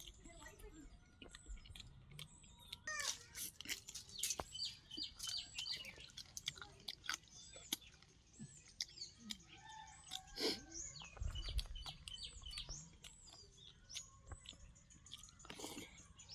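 Small birds chirping over and over, with close, sharp clicks and chewing sounds of someone eating. A brief low rumble comes about two-thirds of the way through.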